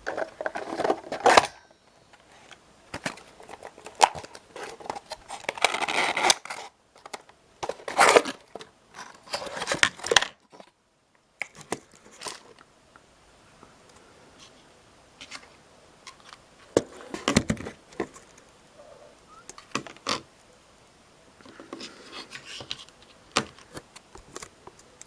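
Processor packaging being opened and handled: irregular rustling and tearing bursts of cardboard and plastic, with sharp clicks and taps in between.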